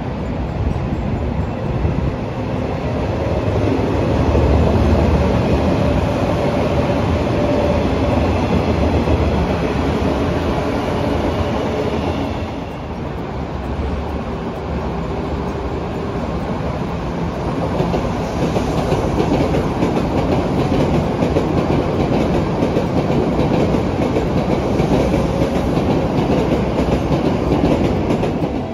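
Train running along the track: steady wheel-on-rail noise with faint whining tones over it, easing briefly about twelve seconds in.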